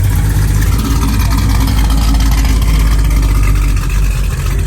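Car engine running loud and steady, a low exhaust rumble.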